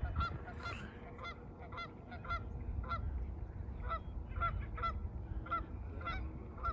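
A bird calling over and over in short, evenly repeated calls, about two or three a second, over a low rumble.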